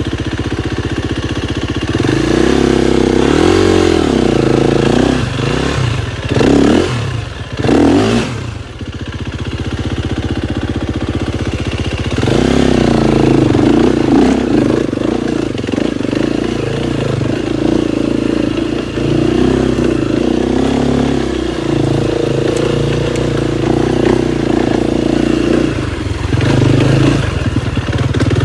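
KTM 250 XCF-W single-cylinder four-stroke dirt bike engine under way on a trail, its pitch rising and falling with the throttle. There are two short, sharp revs about a quarter of the way in.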